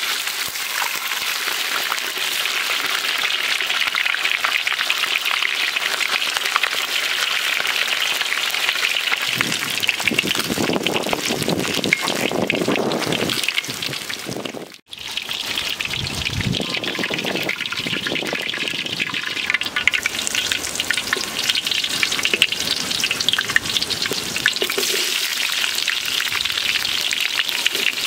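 Hot oil sizzling in a metal wok as whole fish fry, a steady crackling hiss. For a few seconds in the middle, fuller scraping and shuffling from the fish being turned joins it. The sound breaks off for a moment about halfway and then carries on.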